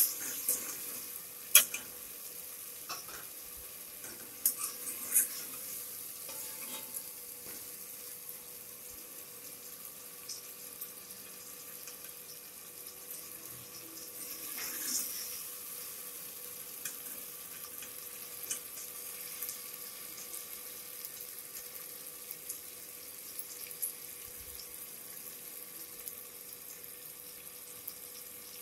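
Tomatoes, onions and green chillies frying in oil in a metal pot, with a steady sizzle. A metal ladle stirs and clinks sharply against the pot several times in the first few seconds, and the sizzle swells briefly around the middle.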